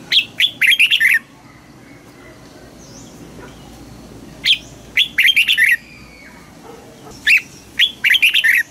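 Red-whiskered bulbul singing three short song phrases of quick, loud notes, each about a second long, a few seconds apart.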